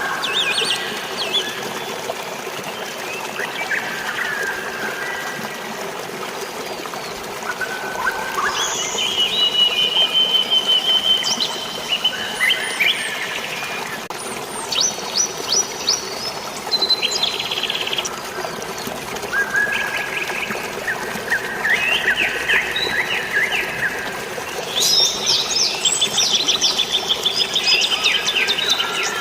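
Several birds chirping and trilling in rapid runs of repeated notes, over a steady hiss of rain and flowing water. The birdsong is busiest near the end.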